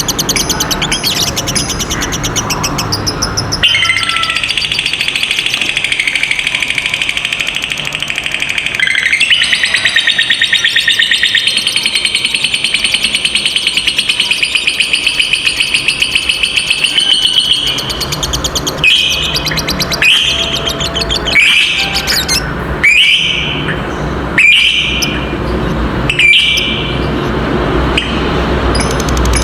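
Lovebird ngekek: a long, rapid, chattering trill held for about fourteen seconds, then a string of short separate calls roughly every second and a half.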